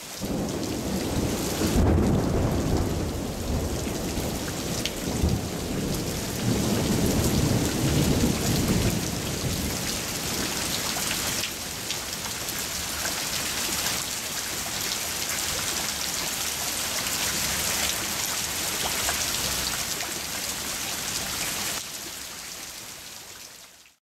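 Hard rain falling and pattering on a wooden tree stump and the surrounding leaves and mulch, as a dense, steady hiss. A heavy low rumble swells and fades through roughly the first nine seconds, then the rain goes on more evenly.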